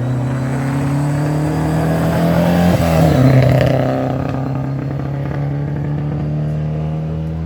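Rally car engine accelerating hard along a stage, its pitch climbing, with a brief dip at a gearchange about three seconds in where it is loudest as the car goes by. After that it holds steady revs.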